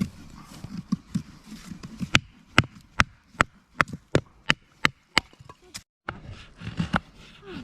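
A run of about nine sharp knocks at an even pace, a little over two a second, starting about two seconds in and stopping a little after five seconds.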